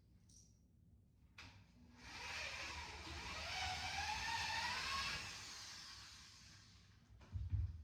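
Power drill boring a hole through the wooden benchwork frame for a carriage bolt: a steady motor whir with a whine that rises slowly in pitch, then tails off. A short low thump near the end.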